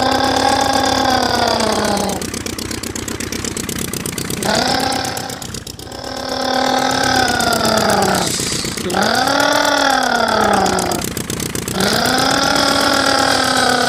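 Imitation of a vehicle engine: a buzzy drone that swells up and falls back in pitch, about five long strokes of roughly two seconds each, like a toy truck driving off.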